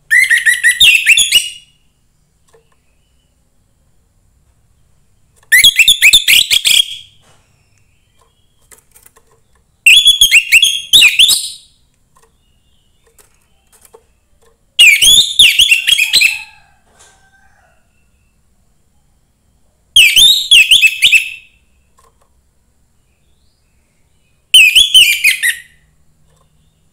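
A young wild orange-headed thrush singing: six short, high song phrases of about a second and a half each, a few seconds apart.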